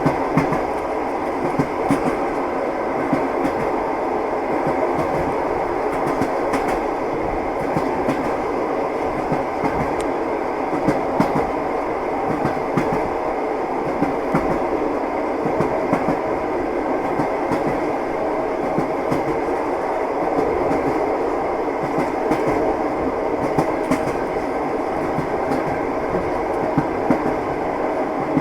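Train wheels clattering on the rails: a steady rolling rumble with irregular sharp clicks and knocks throughout.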